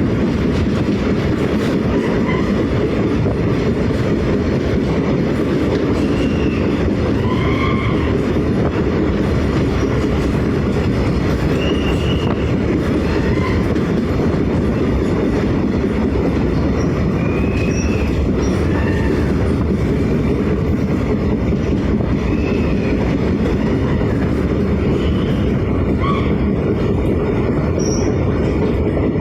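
Train running steadily on its rails, a loud even rumble, with short squeals from the wheels that rise and fall in pitch, recurring every few seconds.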